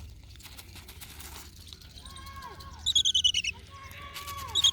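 A bird's rapid high-pitched trill, twice: once about three seconds in and again near the end, with thin gliding whistles beneath. Faint light clicking in the first two seconds.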